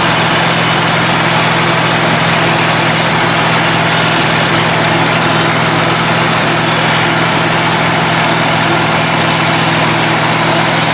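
Engine of a lifted riding mower running steadily at slow speed. It is not running right, which the owner puts down to something blown out in the carburetor, perhaps a jet, after being pushed too hard.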